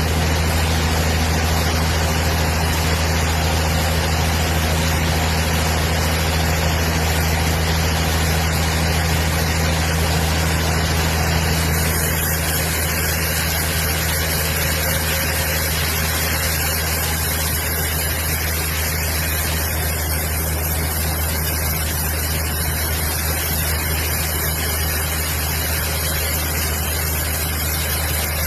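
A large engine running steadily at a constant speed, a deep even hum with a hiss over it that never rises or falls.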